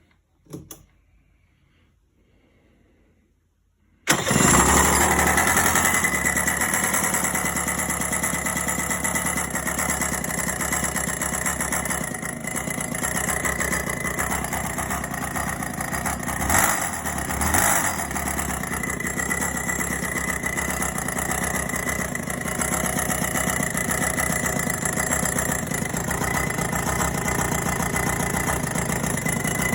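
Rotax Max 125 two-stroke kart engine, clutch removed, starting suddenly about four seconds in and then running steadily, with two short louder bursts about two-thirds of the way through. The owner reports an ugly noise from this engine that he is trying to track down.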